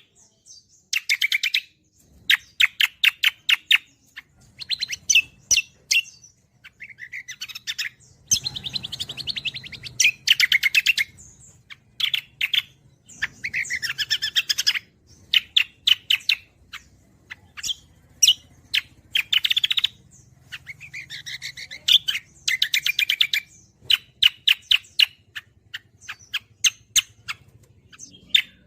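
A cucak kombo songbird singing in full song, phrase after phrase of rapid trilled notes, each burst lasting up to about a second and a half, with short pauses between them.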